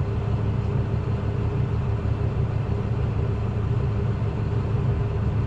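Truck engine idling steadily, an even low hum with no changes in speed.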